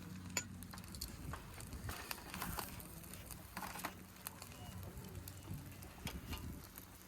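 Campfire crackling, with scattered sharp pops and clicks.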